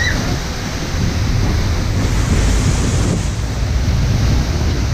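Wind buffeting the microphone on the deck of a cruise boat, over a steady rush of water.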